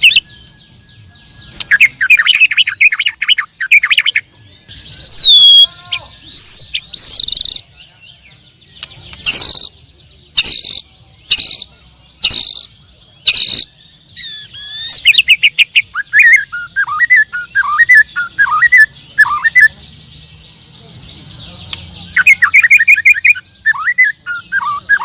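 Canaries singing, with loud varied song phrases: fast trills, whistled glides, and a run of sharp loud notes about once a second in the middle.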